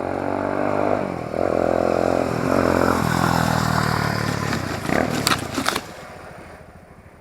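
X101 quadcopter's motors and propellers running, their hum shifting pitch in steps as the throttle changes. A quick run of sharp clattering hits comes about five seconds in, after which the motor sound dies down.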